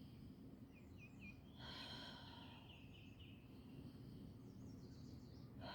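Faint outdoor ambience: a low steady rumble, with a small bird chirping a few quick notes about a second in and again around three seconds.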